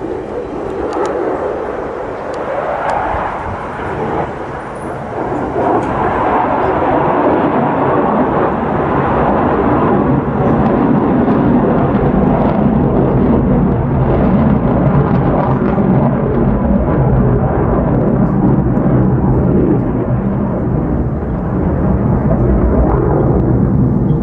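Jet noise from an F-35A Lightning II's single afterburning turbofan engine as the fighter flies its display. It grows louder about six seconds in and deepens into a low rumble.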